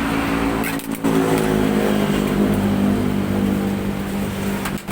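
A motor vehicle engine running steadily, with a low, even hum, briefly broken about a second in.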